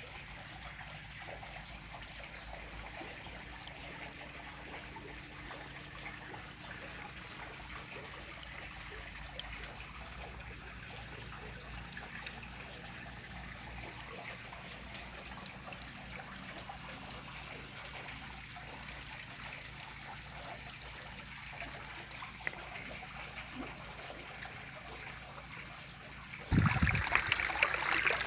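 Spring water trickling and flowing steadily. Near the end it suddenly becomes much louder, a fuller rush of water.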